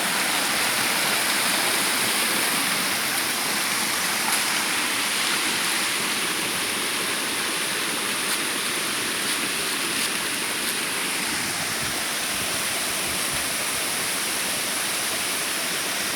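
Waterfall rushing steadily, a loud even hiss of falling water.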